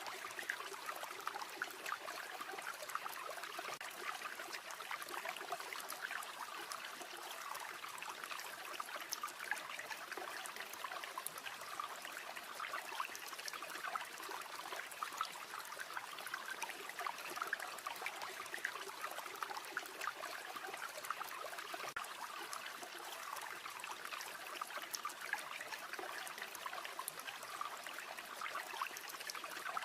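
River water babbling and trickling steadily over stones, with scattered faint sharp ticks through it.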